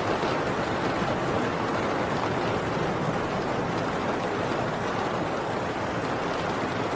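Heavy rain falling steadily on a tin roof, a dense even downpour.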